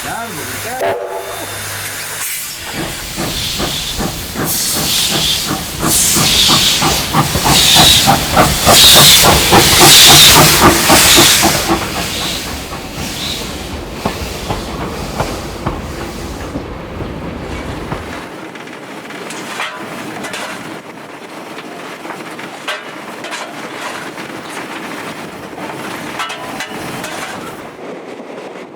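NZR Ww class steam tank locomotive working past with rapid, regular exhaust chuffs and steam hiss, growing to its loudest about ten seconds in and then fading. The carriages follow, their wheels clicking over the rail joints.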